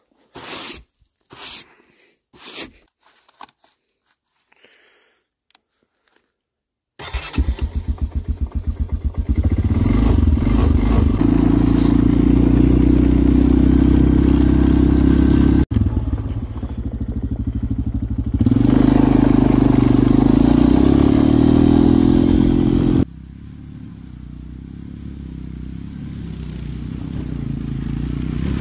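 ATV (quad) engine starting up with a sudden pulsing catch about a quarter of the way in, then running loudly and steadily. Its level drops sharply about four-fifths of the way through and then slowly rises again toward the end. A few short scuffing sounds come before the engine starts.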